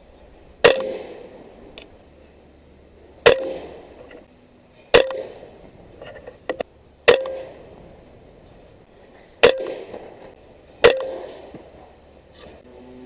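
A .22 Benjamin Marauder PCP air rifle fires six shots, one every two or three seconds. Each is a sharp crack with a short ringing tail, and there are a couple of small clicks between the third and fourth shots.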